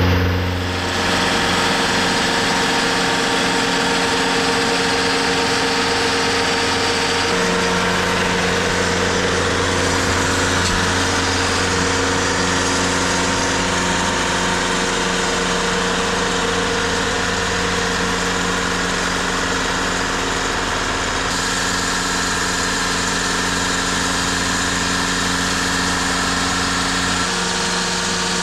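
Portable sawmill's engine running steadily, its tone shifting slightly a couple of times.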